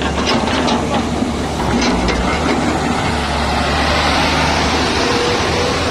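Diesel engine of a JCB machine running steadily, with a few sharp knocks in the first two seconds.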